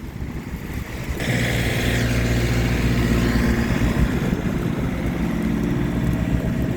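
A motor vehicle's engine running nearby: it comes in about a second in as a steady hum with a hiss, and eases off near the end, over a low wind rumble.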